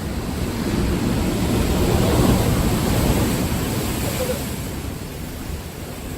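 Sea surf washing against a rocky shore, swelling about two seconds in and then easing.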